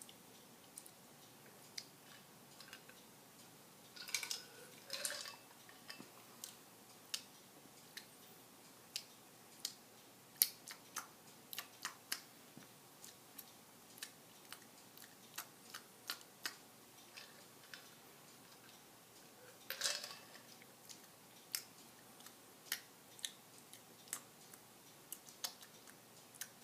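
A cat making soft smacking and clicking noises with its mouth, irregular and a fraction of a second apart, with a brief squeaky meow-like sound about four seconds in and again about twenty seconds in.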